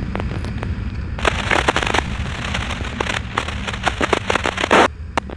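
Crackling static from a police scanner: a burst of hiss with many sharp pops that cuts off suddenly about five seconds in, over the steady low rumble of a motorcycle engine.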